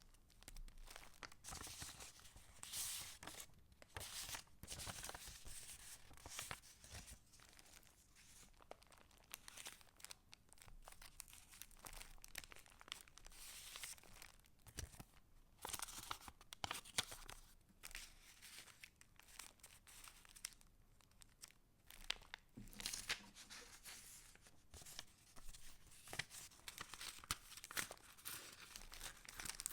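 Paper pages of a handmade junk journal being turned and handled: dry paper rustling and crinkling in short, irregular bursts with brief pauses between.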